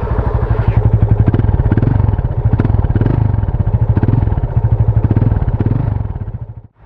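Yamaha FZ25's single-cylinder engine running, its exhaust giving a fast, even run of pulses with slight swells in revs, then cutting off suddenly near the end.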